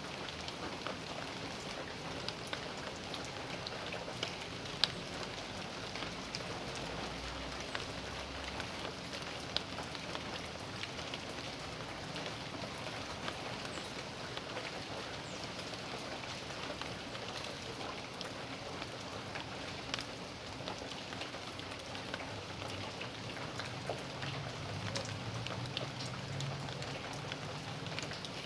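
Steady rain falling in a backyard, a constant patter with many distinct drop ticks striking hard surfaces. A faint low rumble comes up near the end.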